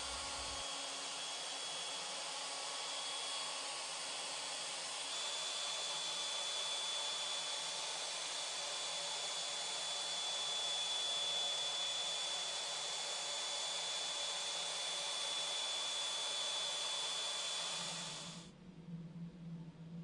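Router on a Legacy CNC ornamental mill running steadily: an even hiss with a thin high whine. It cuts off suddenly near the end, leaving a faint low hum.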